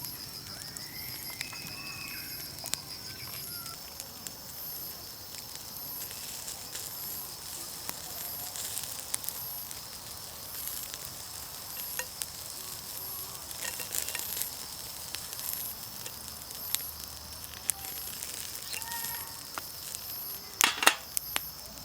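Food sizzling over a charcoal fire, with scattered crackles and a louder burst of crackling near the end. Insects chirp steadily behind it.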